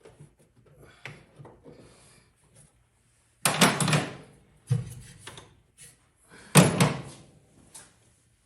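Hand tools and engine parts being handled. There are light taps and scrapes at first, then three loud clattering knocks in the second half, the last one the loudest.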